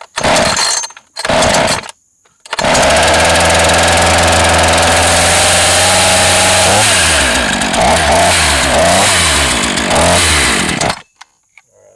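NEO-TEC NH 841 two-stroke gasoline chainsaw being pull-started at half choke: two short bursts from the starter pulls, then the engine catches about two and a half seconds in and runs steadily. About seven seconds in its speed drops and wavers unevenly, and it dies about a second before the end, a sign that the idle is set too low.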